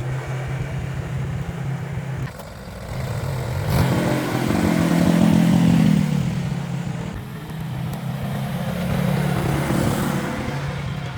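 Engine of an old agricultural vehicle running, revved up louder and higher for about two seconds around the middle, then settling back.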